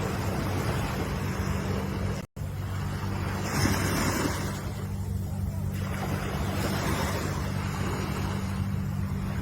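Ocean surf: waves washing and breaking in a steady roar of noise, one wave surging louder about three and a half seconds in. The sound cuts out completely for a split second a little after two seconds in.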